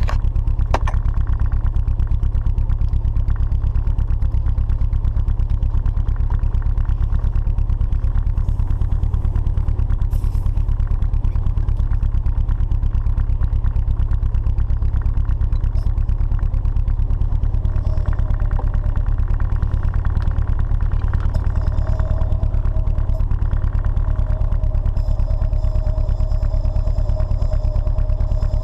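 Turbocharged Nissan 240SX's KA24DE inline-four idling steadily while Seafoam is drawn in through a small vacuum line. A thin steady whine joins in over the last several seconds.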